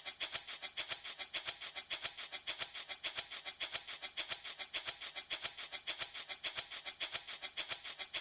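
Handmade baby rattle shaken in a steady, quick, even rhythm, each shake a short bright rattle of small beads or pellets.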